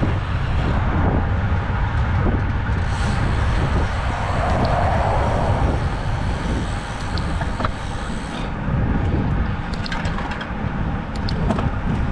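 Steady low rumble of road and traffic noise while riding a road bike, with a few light clicks near the end.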